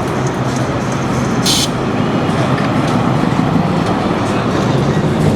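A car engine running at low speed with a low rumble, with a short sharp hiss about a second and a half in.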